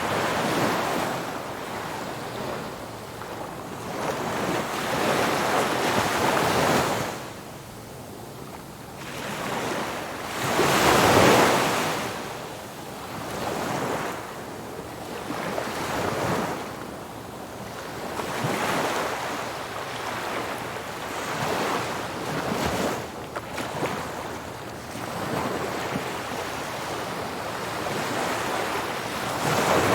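Ocean waves breaking on the shore, the surf swelling and falling back every few seconds, the biggest wave about eleven seconds in, with wind buffeting the microphone.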